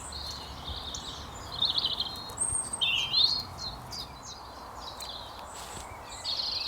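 Small songbirds singing in short chirping, warbling phrases, one after another, over a steady background hiss.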